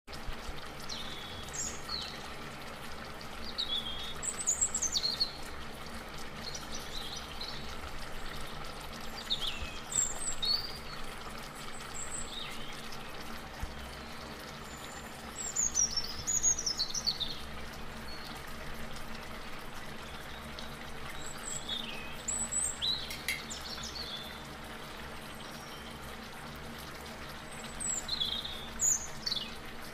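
Small birds chirping, short quick falling calls coming every few seconds, over a steady low background hum.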